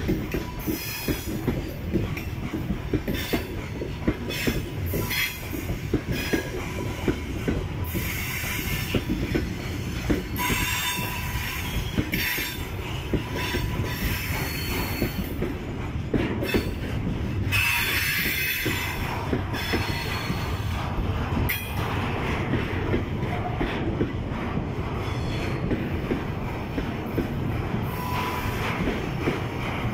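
Freight train wagons rolling past close by, open gondola cars followed by container flatcars: a steady rumble of steel wheels on rail with frequent sharp clacks from the wheels crossing rail joints.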